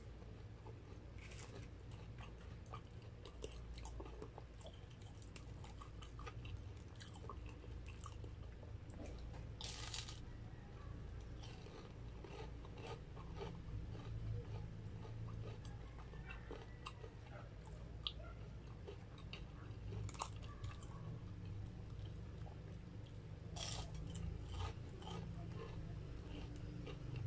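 Close-up chewing and crunching of fried, breadcrumb-coated corn dogs, with a few sharper crunches scattered through.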